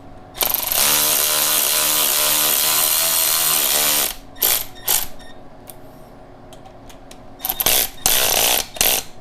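Cordless power tool driving new exhaust-manifold studs into threaded holes. It makes one steady run of about three and a half seconds with a motor whine, then a few short bursts, with several more short bursts near the end.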